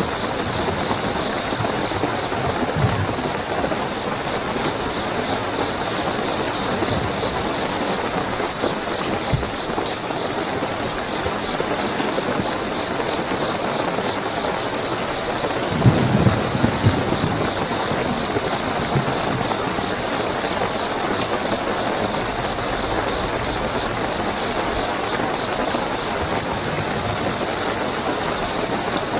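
Steady heavy rainfall with crickets chirping in a continuous high trill. A brief low rumble, like distant thunder, rises about halfway through.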